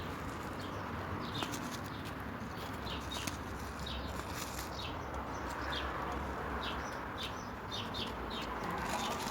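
Bird chirping: short high chirps repeating irregularly, about one or two a second, over a steady hiss.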